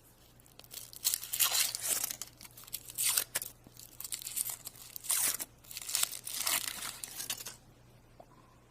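The wrapper of a chocolate surprise egg being torn and crinkled open by hand, in irregular rustling bursts that stop about a second before the end.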